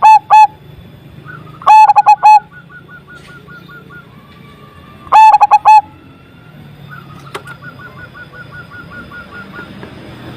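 Zebra dove (perkutut) cooing loudly in short phrases of a few quick notes, about every three to four seconds, loud enough to hit full level. Between the phrases a softer rapid run of higher repeated notes.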